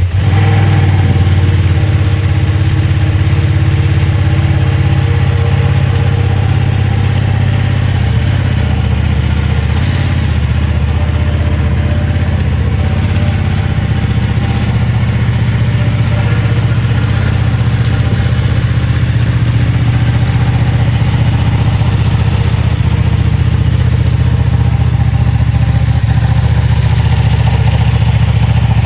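A 2023 Ducati Panigale V2's 955 cc Superquadro V-twin engine firing up and then idling steadily.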